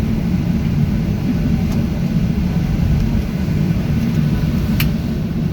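Steady low rumble of a Boeing 737-700's CFM56 jet engines running, heard inside the passenger cabin. A single short click sounds near the end.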